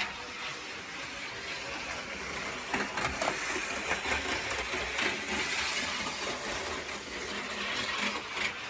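OO gauge model train running along the layout's track: a steady whir from its small electric motor and wheels, with a few short clicks a few seconds in.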